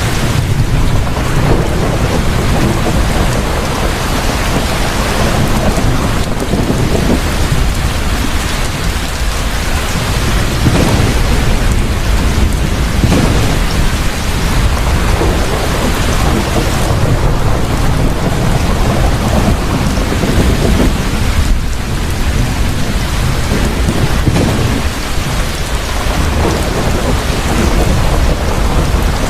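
Heavy rain pouring steadily, with continuous low thunder rumbling that swells and fades in slow waves.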